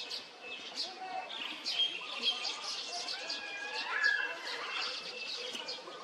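Weaver birds chirping in quick, busy chatter, with a few whistled notes gliding up and down in pitch, the loudest about four seconds in.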